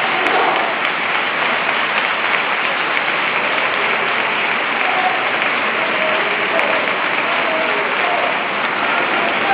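A crowd applauding steadily, with voices mixed in.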